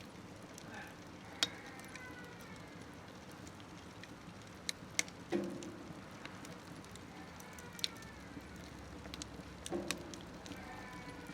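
Wood fire burning in a smokeless wood stove: a steady low hiss with sharp crackles and pops now and then, two duller thuds of wood shifting, and a few faint falling whistles.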